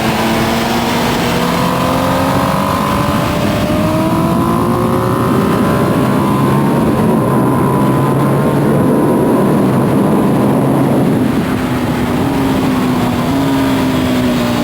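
A 2025 Ducati Panigale V2S's V-twin engine at full track pace. It rises in pitch under hard acceleration for the first few seconds. A dense rush of wind then largely covers it until about 11 seconds in, after which the engine note comes back steadier, with a couple of small pitch steps near the end.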